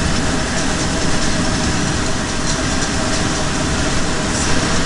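Scania R620's 16-litre V8 diesel engine idling steadily.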